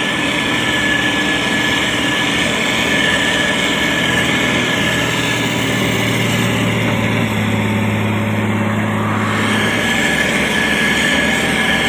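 Diesel engine of a SANY STG190C-8S motor grader running steadily under load, with a constant high whine over it. A deeper engine note swells about halfway through and drops away a few seconds later.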